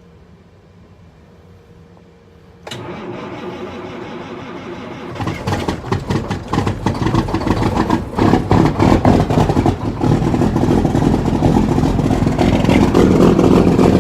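1991 Freightliner semi truck's diesel engine being cold-started: after a couple of quiet seconds the starter cranks for about two and a half seconds, then the engine catches and runs unevenly, getting louder, a little cold.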